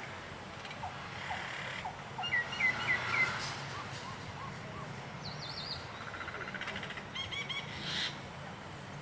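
Several birds chirping and calling in turns over a faint steady low hum. The loudest is a run of four quick hooked chirps about two and a half seconds in, followed by a shorter run of high chirps near the middle and a rapid series of chirps near the end.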